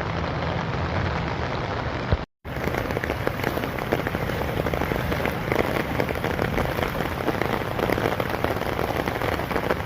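Heavy rain pattering steadily as a dense crackle of drops. For the first two seconds a low engine hum runs beneath it; the sound then drops out for an instant at a cut, and the rain goes on.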